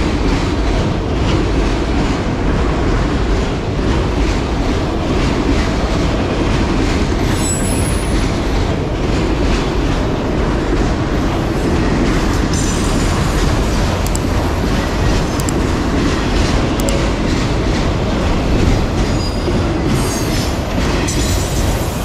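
Freight train of enclosed autorack cars rolling past at trackside: a steady rumble and clatter of steel wheels on the rails. Brief high-pitched wheel squeals come about eight seconds in and again now and then later.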